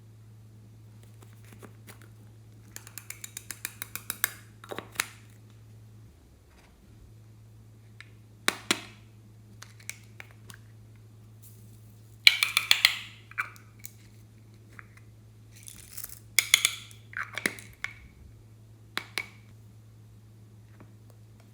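Slime being squeezed and mixed by hand: several bursts of sticky clicking and crackling, one of them a quick run of about six clicks a second, over a steady low hum.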